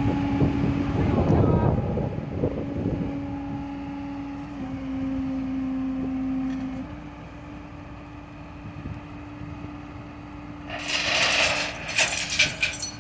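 A steady mechanical hum that steps slightly in pitch twice, with low rumbling over the first few seconds and a loud burst of hissing and rattling near the end.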